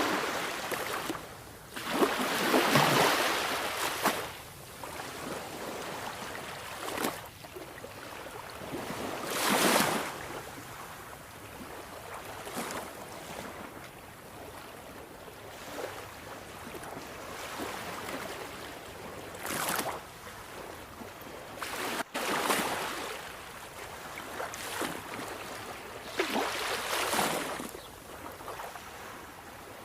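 Sea waves washing onto a shore: a steady rush of surf with larger waves swelling and falling away every several seconds.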